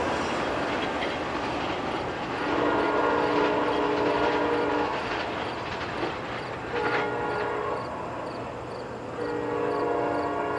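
A passenger train's locomotive horn sounds a long blast, a short blast, then another long one, the tail of the standard grade-crossing signal. Under it runs the steady rumble and clickety-clack of the passing train at speed.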